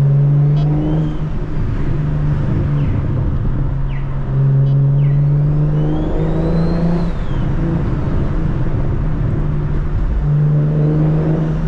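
Single-turbo BMW 335is's N54 inline-six engine running under way. The engine note holds steady in stretches near the start, the middle and the end, and slackens in between. A faint high whine rises and then falls midway through.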